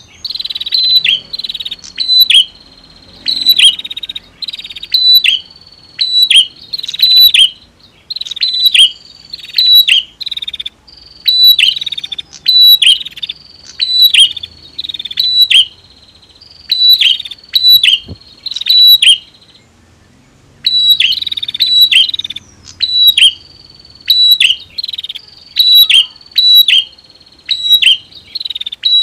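Male and female prinias (prenjak) calling, loud and repeated: each phrase is a thin buzzy note followed by a few sharp falling chips, about one phrase every second or two, with a brief pause near two-thirds through.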